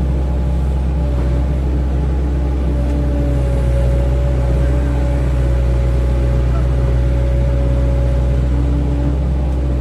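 Excavator's diesel engine running steadily at working revs, with a thin steady whine over the low drone.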